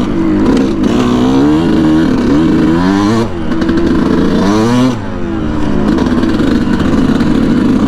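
2019 Yamaha YZ125 two-stroke engine with an aftermarket FMF exhaust, ridden hard in deep sand. Its pitch climbs as it revs, drops back about three seconds in, climbs again and drops just before five seconds, then runs steadily.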